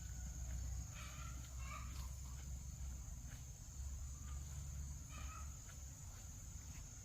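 Farm ambience: a steady high insect buzz over a low rumble, with a few short animal calls about one, two and five seconds in.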